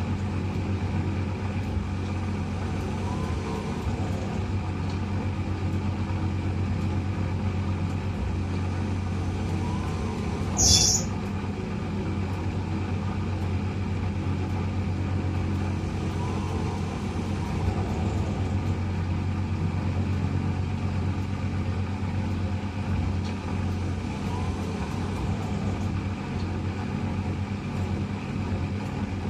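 Eudora 38 Super washing machine running with a steady motor hum, faint short whirs recurring every several seconds, and one brief loud high hiss about ten seconds in.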